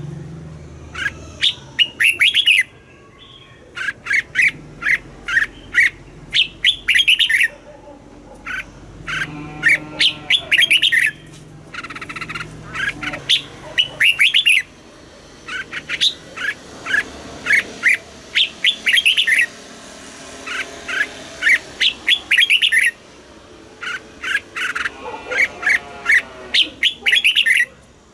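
Red-whiskered bulbul singing: loud, quick phrases of bright chirping notes, one after another, with short pauses between them.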